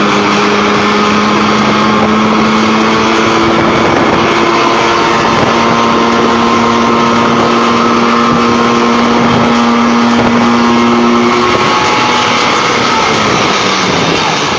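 An engine running steadily with a constant hum and a rushing noise, its pitch holding level with small shifts.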